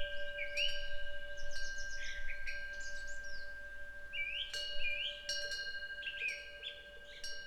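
Buddhist temple wind bell (pungyeong) hanging from the eaves, tinkling as it is struck several times, its long ringing tones held under the strikes. Small birds chirp over it in short rising calls.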